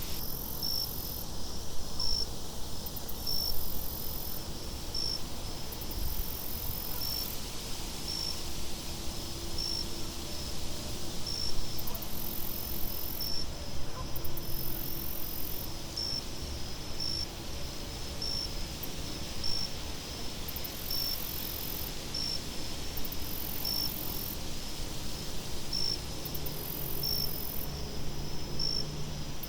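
Crickets chirping at an even pace, about one chirp every second and a half, over a low rumble of wind.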